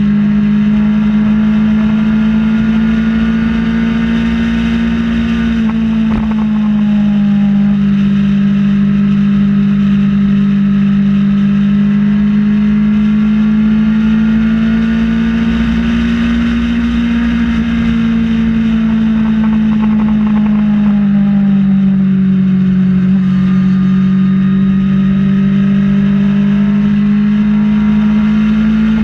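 Kawasaki ZX-6R's inline-four engine running at a steady cruise, its pitch drifting slowly up and down with small throttle changes, dipping about six seconds in and again around twenty-two seconds. A low rush of wind sits under it.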